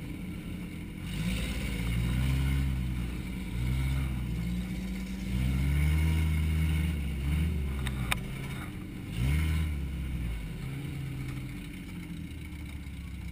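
Compact car's engine revving up and easing off several times as it is driven hard, its pitch climbing and dropping with each push. A single sharp click about eight seconds in.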